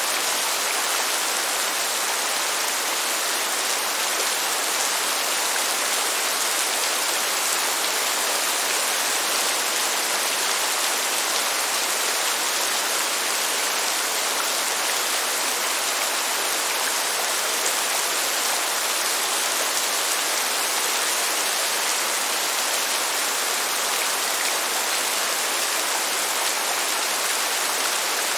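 Steady rain, an even hiss that does not change, with no thunder in it.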